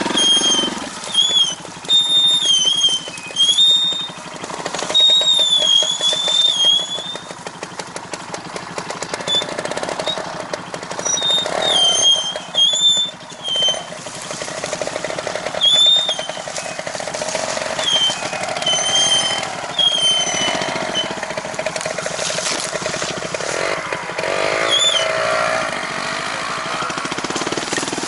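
A small engine running at low speed, with repeated short, high-pitched wavering squeals over the first twenty seconds or so. The squeals then die away and the engine carries on alone.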